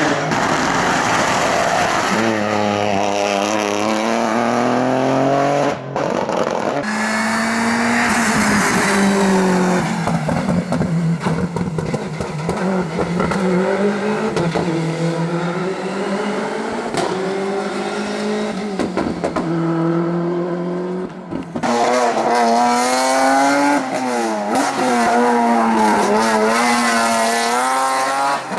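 Rally cars driven hard, their engines revving up and falling back again and again through gear changes. The sound changes abruptly a few times as it cuts from one car to another.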